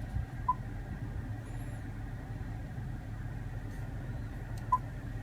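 Steady low hum of the Range Rover Supercharged's supercharged V8 idling, heard from inside the cabin, with two short high beeps about four seconds apart.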